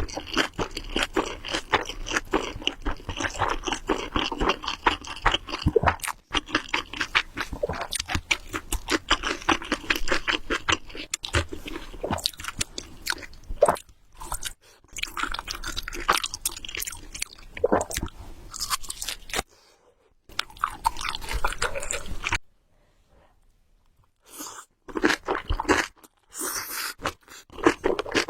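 Close-miked chewing of food, a dense run of small crunching and wet mouth sounds, with a short pause and then a near-silent gap of about two seconds a few seconds before the end.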